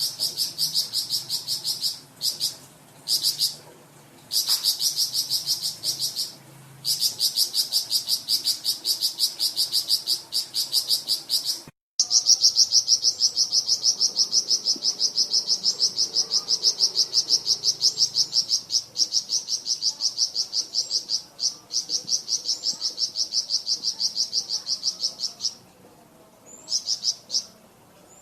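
Flamboyan songbird singing a long, fast, high-pitched chattering trill of evenly repeated notes, about five a second, in stretches of several seconds broken by short pauses.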